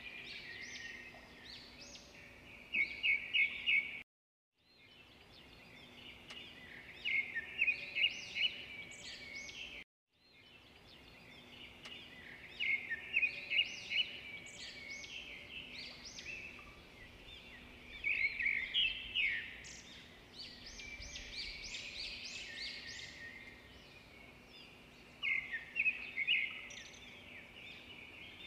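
Small birds chirping and trilling in quick repeated phrases over a faint steady hum, cut by two brief dropouts to silence.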